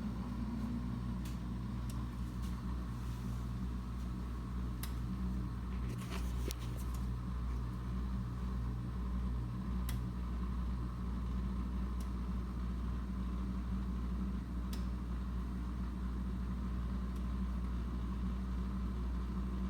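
Viking dishwasher's drain pump running steadily, pumping the water out at the start of a normal wash cycle: a low, even motor hum with a few faint clicks.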